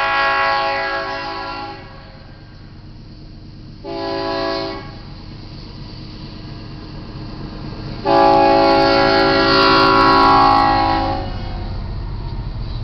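Locomotive air horn on a GE AC4460CW leading a Union Pacific freight: a long blast ending about two seconds in, a short blast around four seconds, then the loudest, long blast of about three seconds. The long-long-short-long pattern is the grade-crossing signal. A low locomotive rumble grows underneath toward the end.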